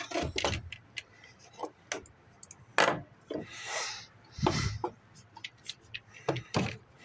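Hand tools and small metal parts being handled on a workbench: a scatter of separate clicks and knocks, with a short rustling scrape midway and a heavier knock just after.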